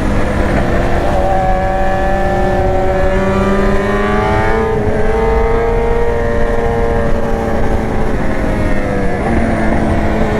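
BMW S1000R inline-four engine running under way as the motorcycle is ridden, its pitch climbing slowly, stepping about halfway through, then holding and easing off. Heavy wind noise on the helmet microphone runs under it.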